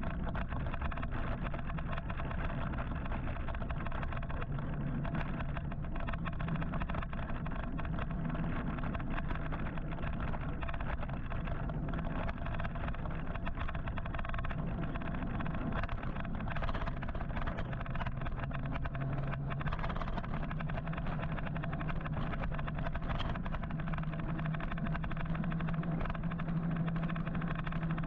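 Steady traffic and road noise heard from a moving electric motorcycle in city traffic, with a low hum that fades in and out several times.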